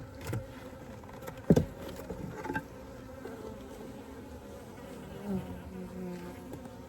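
Honeybees buzzing steadily around an open hive. A single sharp knock about a second and a half in, with a few lighter clicks from handling the hive woodwork.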